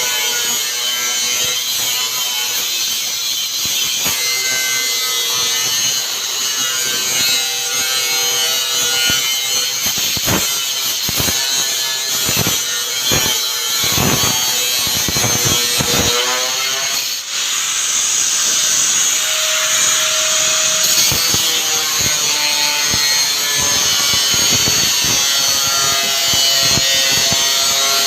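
Power saw cutting steadily, its motor tone sagging and recovering as it bites into the material, with a brief let-up about two-thirds of the way through.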